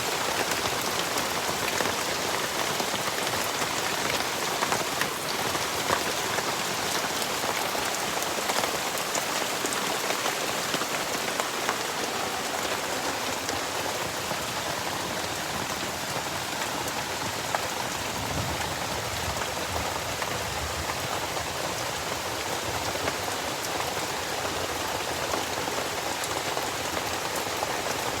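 Heavy tropical rain falling steadily and without a break, a dense patter of drops hitting the surfaces around.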